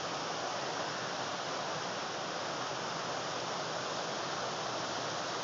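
Fast-flowing creek whitewater rushing over rocks, a steady even noise.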